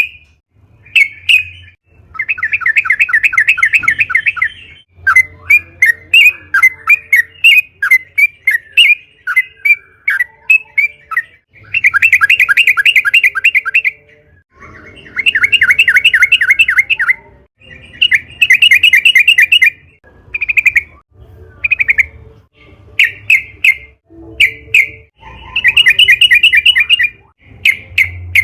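Yellow-vented bulbul (trucukan) singing loudly. Short bubbly chirps alternate with fast chattering runs of about two seconds each, repeated five times.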